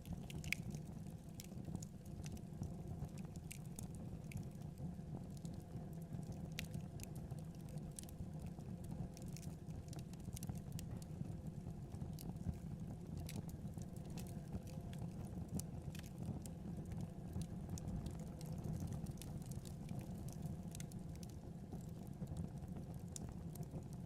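Fire burning in a fireplace: a steady low rumble of the flames with scattered sharp crackles and pops.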